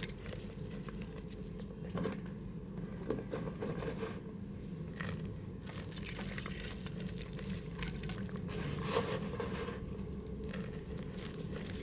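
Mud crumbling in a pot: irregular crackles and scrapes, with louder crunches about two, three and nine seconds in, over a steady low hum.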